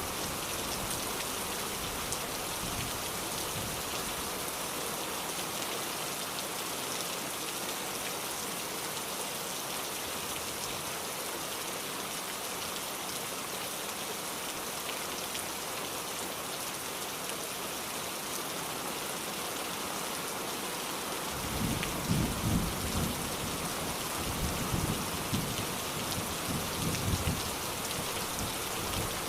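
Steady, heavy rain hissing. About two-thirds of the way in, irregular low rumbles join it.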